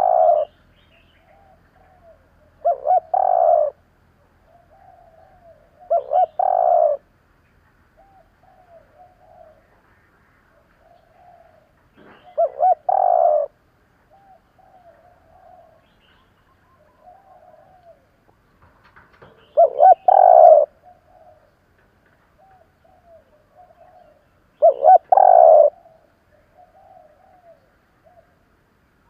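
Spotted dove cooing: six loud phrases of about a second each, several seconds apart, with fainter, shorter coos in between.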